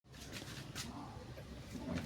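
Small engine converted from two-stroke to four-stroke, running faintly at a low idle with a few soft ticks.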